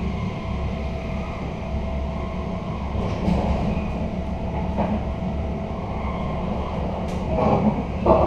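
Interior running noise of a moving passenger coach: a steady low rumble of wheels on rail, with a few sharp knocks from the running gear, the loudest near the end.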